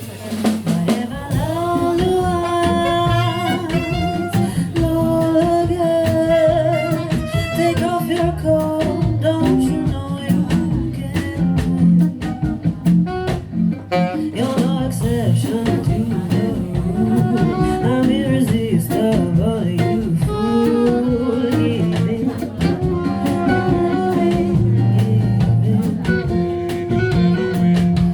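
A jazz quintet playing: guitar, double bass and drum kit, with a held, wavering melody line on top.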